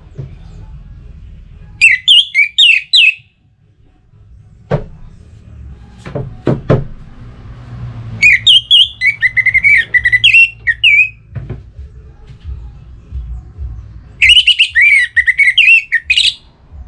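Orange-headed thrush singing its territorial song: three bursts of rapid, varied whistled phrases that jump up and down in pitch. A few sharp clicks sound between the first and second bursts, over a low steady hum.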